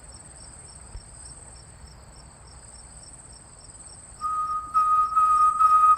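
Crickets chirping steadily in a regular pulse. About four seconds in, a person starts whistling a long, steady note broken by short pauses, louder than the crickets.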